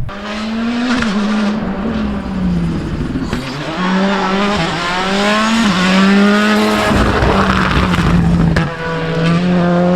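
Rally car engine revving hard and accelerating through the gears. The pitch climbs, then drops sharply at each upshift, several times over.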